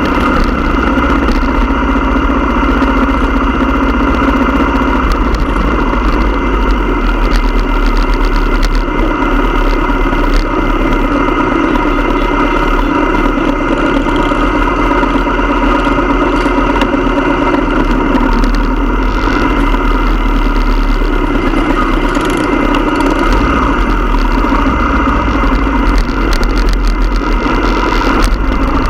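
Motorcycle engine running steadily, with a constant low rumble and no rise or fall in pitch.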